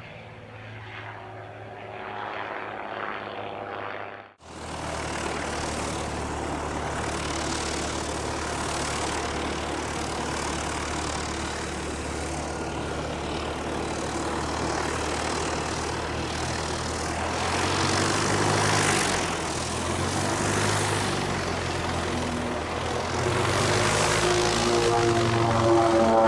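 Propeller aircraft engine fading away, then, after a sudden cut about four seconds in, the twin turboprops of an Embraer EMB-121 Xingu running steadily, growing louder and rising in pitch near the end.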